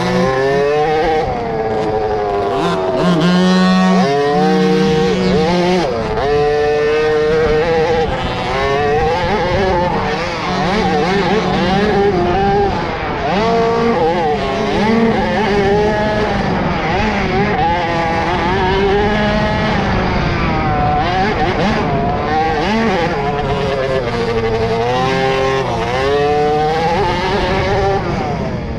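Several 50cc two-stroke mini motocross bikes racing, their engines revving up and down and overlapping as the riders work the throttles.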